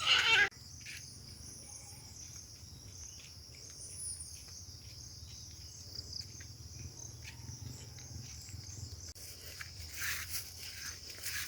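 Insects chirring steadily in a high, even pitch, with scattered faint ticks and a brief louder rustle right at the start.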